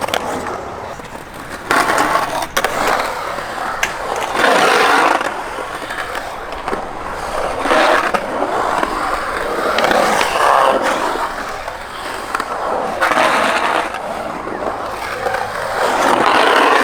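Skateboard wheels rolling on concrete, the sound swelling and fading every couple of seconds, with a few sharp clacks.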